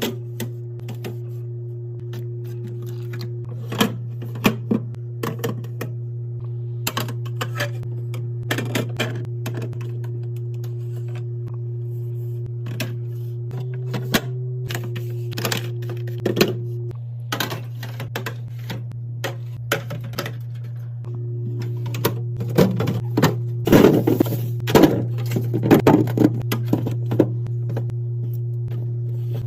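Food packages and containers being handled and set down while a fridge is restocked: irregular clicks, taps and thunks, busier and louder in the last third. A steady low background music drone runs under it.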